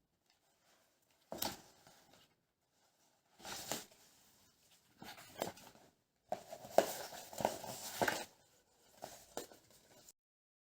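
Household handling noises in five short bursts of rustling and clattering, the longest and loudest about halfway through, cutting off suddenly near the end.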